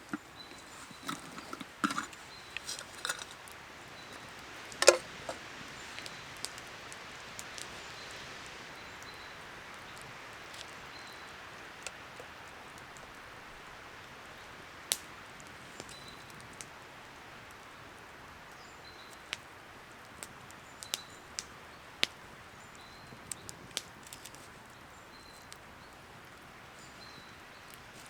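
Wood fire crackling: sharp pops at irregular intervals, one loud pop about five seconds in, over a faint steady hiss. A few knocks and rustles of handling come in the first seconds.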